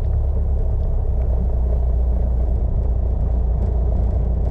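Piper Cherokee's four-cylinder piston engine running steadily at low taxi power, a constant low drone.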